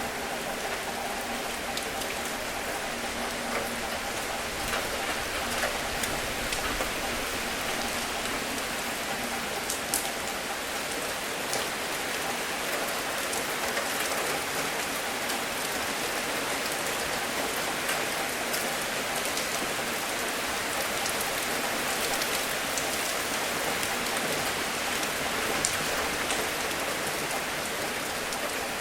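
Steady rain falling, with single drops landing sharply now and then over the constant hiss.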